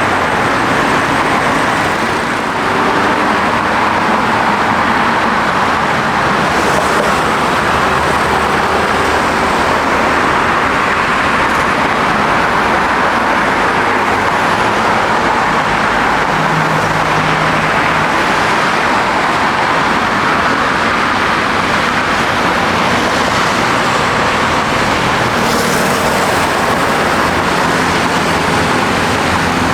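Steady, loud roar of an airliner's jet engines, holding an even level with no rise or fall.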